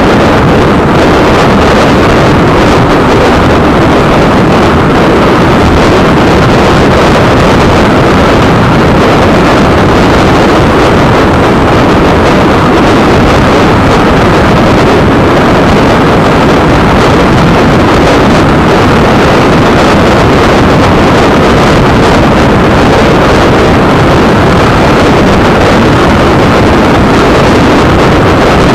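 Loud, steady rumble of an express train's wheels running over a steel truss bridge, heard from outside the coach with wind buffeting the microphone.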